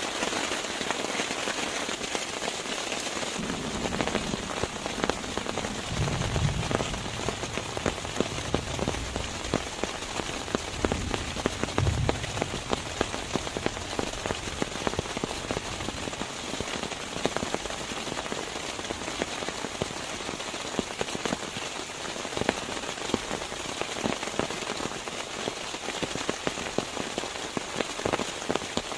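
Rain pattering steadily on a surface, a dense crackle of many small drops, with a low rumble between about four and thirteen seconds in.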